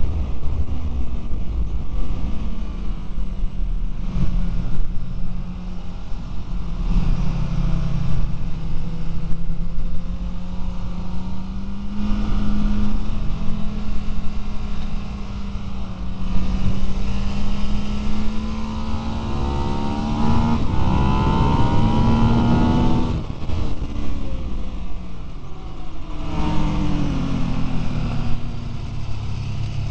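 Ducati 999's L-twin engine running hard at track speed, heard from a camera mounted on the bike with heavy wind rush on the microphone. The engine note holds and then climbs steadily under acceleration through the middle, breaks off sharply a little over three-quarters in as the throttle closes or a gear changes, then climbs again near the end.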